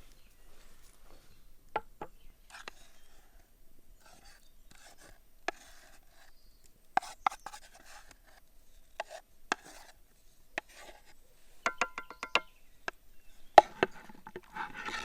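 Fork clinking and scraping against a plate of pasta: scattered light taps, then a quick run of about seven ringing clinks a little before twelve seconds in.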